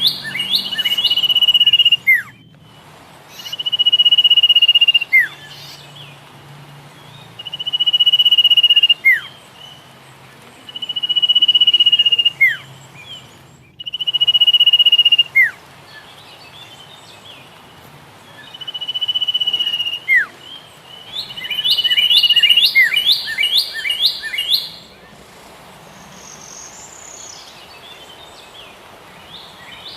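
A songbird singing a repeated phrase about seven times, every three to four seconds: a high held note that swells in loudness and ends in a quick downward slur. Bursts of fast, high chirping trills come at the start and again about three-quarters of the way through.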